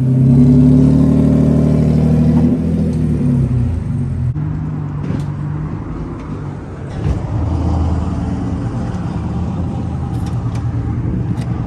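Loud car engine running, held at a raised speed at first, then dropping about two and a half seconds in and settling to a lower, rougher idle.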